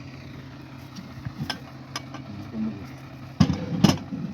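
Metal cooking utensils clinking and knocking against pots, scattered at first and then a cluster of louder knocks about three and a half seconds in, over a steady low hum.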